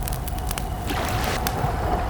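Wood campfire crackling, with scattered sharp pops over a low rumble of flames. About a second in, a brief wash of lapping lake water rises and fades.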